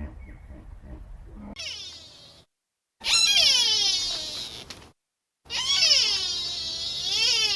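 Loud, long, wailing animal calls with a meow-like, cat-like quality. A short, fainter call comes about a second and a half in, then two long cries of about two seconds each, split by abrupt gaps of silence.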